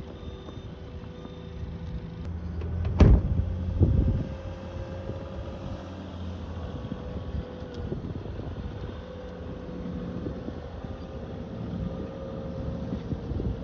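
A vehicle engine running steadily, with two heavy thumps about three and four seconds in.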